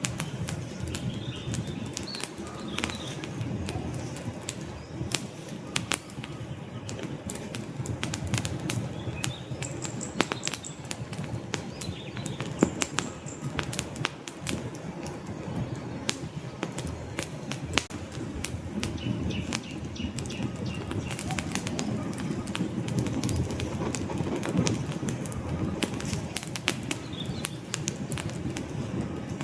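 Wood fire burning in a fireplace: a steady low rush of flame with many sharp, irregular crackles and pops from the burning logs.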